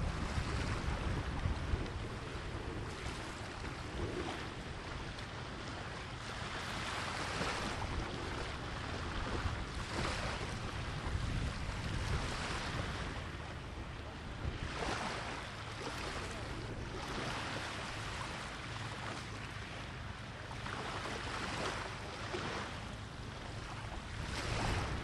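Sea surf breaking on the shore, the noise swelling with each wave every couple of seconds, while strong wind buffets the microphone with a low rumble.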